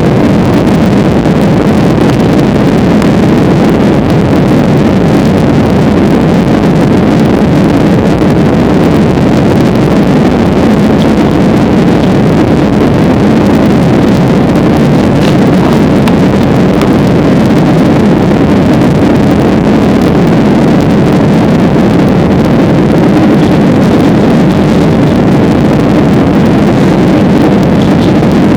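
Steady, even drone of a passenger plane's engines and rushing air, heard from inside the cabin.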